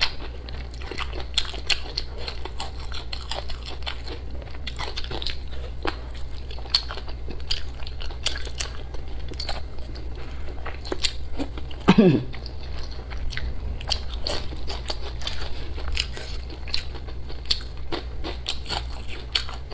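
Close-miked chewing and biting of spicy braised pig intestines, many wet clicks and small crunches going on without a break over a steady low hum. About twelve seconds in there is one short sound that slides downward in pitch.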